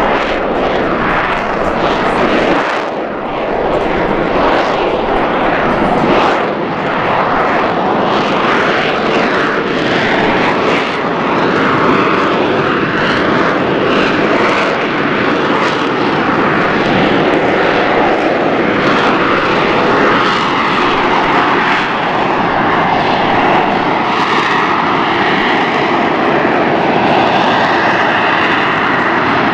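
USMC AV-8B Harrier II's Pegasus turbofan jet running loud and steady as the jet hovers, a dense rushing jet noise that holds its level throughout. A whining tone comes in near the end.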